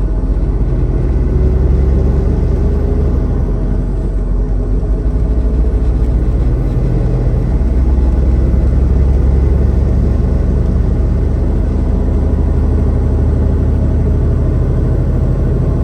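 Semi-truck heard from inside the cab while driving at a steady speed: a continuous low engine and road rumble with a steady hum.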